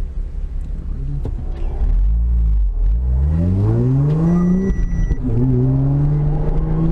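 Car engine heard from inside the cabin, accelerating hard: the revs climb for about three seconds, drop at an upshift, then climb again more slowly in the next gear.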